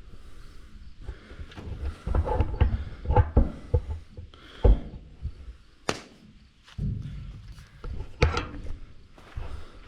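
Irregular wooden knocks and thunks of storm-downed branches being handled and dropped, with a few louder sharp knocks about five and six seconds in and again near eight seconds.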